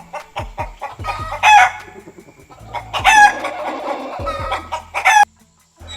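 Chickens clucking, with several loud drawn-out calls. The sound cuts off abruptly near the end.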